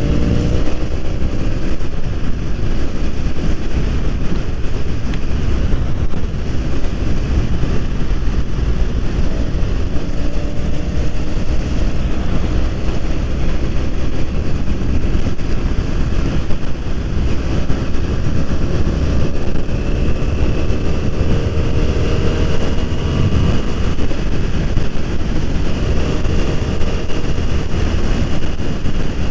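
BMW F 800 R parallel-twin engine running under way, heavy wind rush on the microphone over it. The engine pitch drops just after the start, then climbs slowly over the second half.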